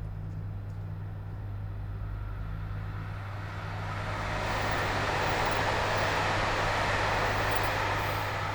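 Steady low hum of a stationary 721-series electric train's on-board equipment, heard from inside the car. A rushing noise swells from about three seconds in, is loudest for a few seconds, then fades near the end.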